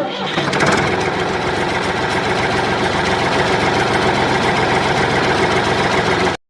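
Engine idling steadily with a fast, even knocking rhythm.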